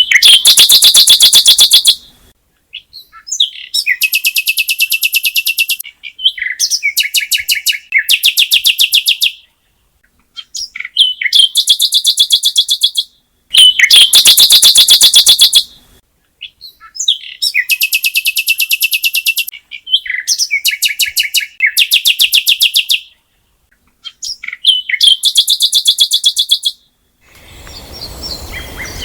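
A songbird singing loud, rapid trills in repeated bouts of two to three seconds, with short pauses between them. Near the end the song stops and a steady background hiss of outdoor ambience takes over.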